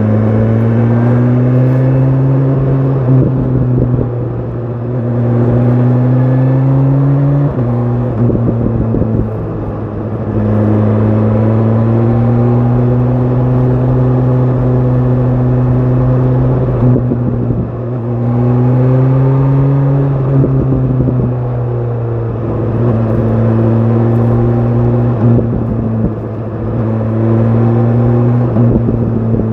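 BMW S1000 RR's inline-four engine through an Akrapovic exhaust, under way and pulling through the gears: the engine note climbs slowly, then drops back at each of several upshifts. It eases off the throttle a few times, where it goes quieter.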